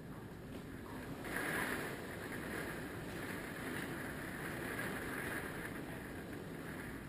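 Hurricane wind gusting and buffeting the microphone, with a stronger gust coming in about a second in.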